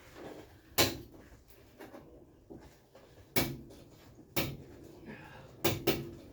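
Sharp metallic clanks and knocks of hand tools against metal: about five separate strikes, two in quick succession near the end.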